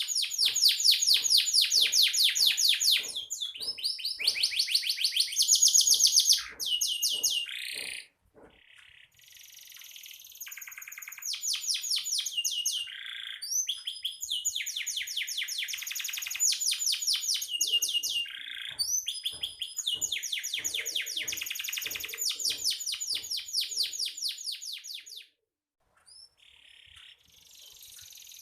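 Domestic canary singing in long rolls: fast trills of rapidly repeated notes, with a few short sliding whistles between phrases. It pauses briefly about eight seconds in and again near the end.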